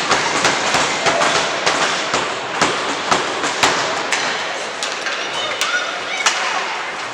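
Sharp, irregular clacks and cracks of hockey sticks and puck on ice and boards, several a second at first and thinning out later, over a steady arena din with faint distant voices.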